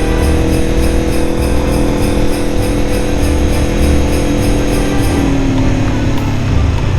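Jingle bells shaken in a steady rhythm of about four strokes a second over a running motorcycle engine; the bells stop about five seconds in and the engine note drops.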